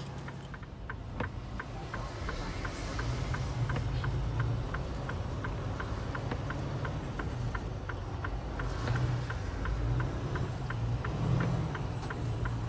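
Semi-truck's diesel engine idling, heard from inside the cab, with the dashboard indicator flasher clicking steadily about two or three times a second.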